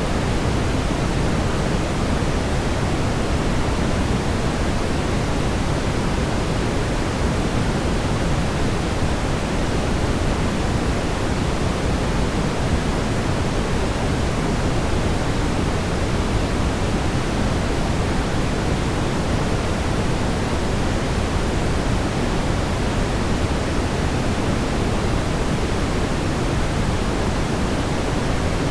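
Steady brown noise: an even, unchanging rumbling hiss, strongest in the low end, with no tones or events.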